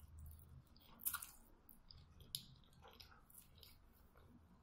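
Quiet close-up chewing of a bite of sticky glutinous-rice zongzi with pork belly: soft wet mouth clicks and smacks, with a louder smack about a second in and another about halfway through.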